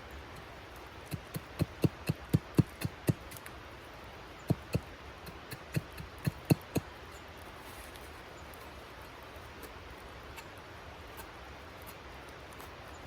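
A run of sharp knocks or snaps, about four a second, in two bursts about a second apart, over a faint steady hiss.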